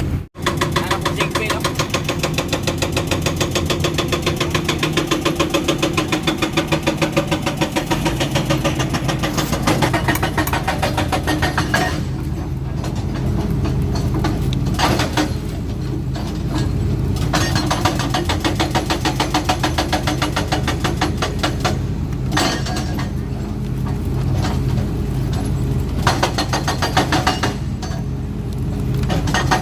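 Heavy diesel excavator engine running steadily, with a fast rhythmic clatter over it that comes and goes. There is a brief dropout just at the start.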